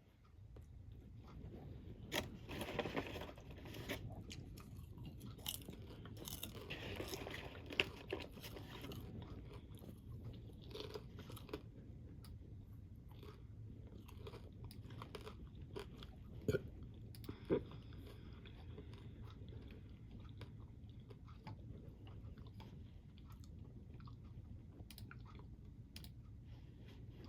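A person chewing a crunchy snack with the mouth close to the microphone: a run of short crunches, thickest in the first third, then sparser bites with a few sharp louder crunches, over a steady low hum.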